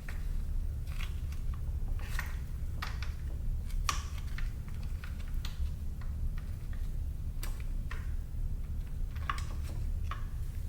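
Irregular light clicks and taps, a dozen or so spread unevenly, over a steady low hum.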